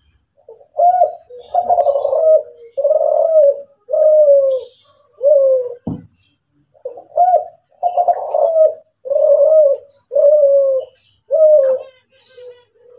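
A Kelantan derkuku (spotted dove) cooing loudly in its full song: two phrases of about five round, falling coo notes each, with a short pause and a brief knock between them about halfway through.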